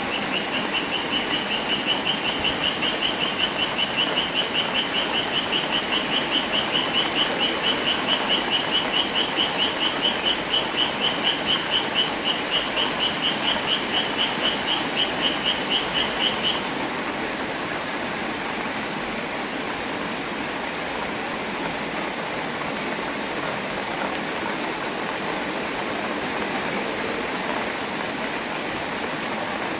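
Steady rain. For about the first sixteen seconds, a high note of one pitch pulses about four times a second over the rain, then stops.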